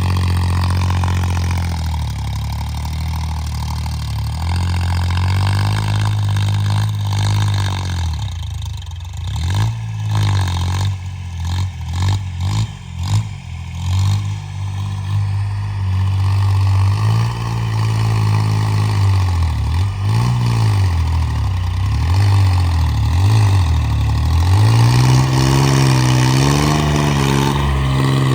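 Homemade 26 hp tractor engine running, its speed holding steady at first, then dropping and picking up again several times, and running steady and a little faster near the end.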